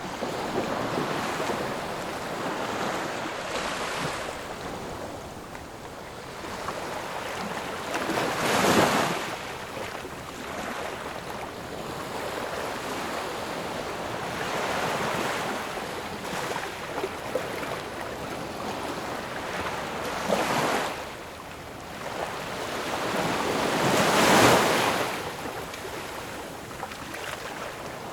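Ocean waves breaking and washing on a shore in a continuous hiss of surf, with two bigger waves cresting about a third of the way in and again near the end.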